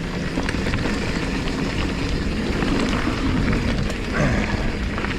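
Mountain bike running fast down a dirt trail: steady tyre roar over the ground with rattling from the bike, and wind rushing over the action camera's microphone.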